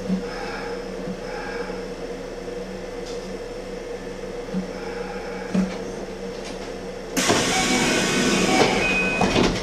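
Kintetsu electric train standing at a station, heard from inside its front end: a steady electrical hum from the train's equipment with a few light knocks. About seven seconds in, a louder rushing, rattling noise starts abruptly.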